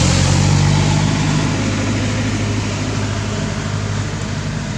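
A vehicle engine running with a steady low hum and hiss, loudest at the start and slowly easing off.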